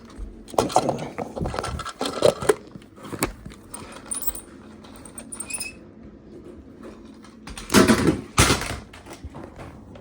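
Plastic parts of a mini desk vacuum being handled: irregular clicks, rattles and scrapes, with two louder rustling bursts near the end.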